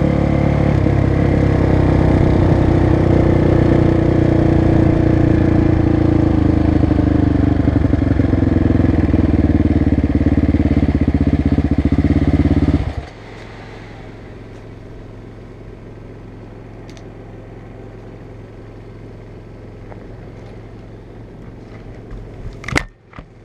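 Motocross machine's engine running hard and steady, its pitch drifting slowly down, then cutting off abruptly about thirteen seconds in. A quieter low steady hum follows, with one sharp knock near the end.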